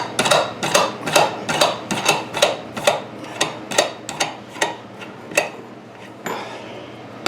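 Sharp mechanical clicks at an even pace, about two and a half a second, that grow fainter and stop after about five and a half seconds.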